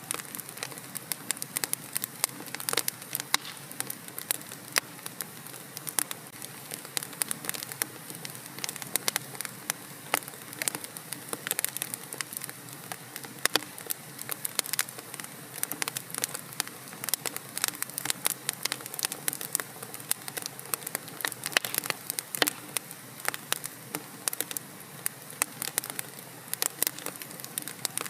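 Fire in a fireplace crackling: a steady hiss with frequent irregular sharp crackles and pops.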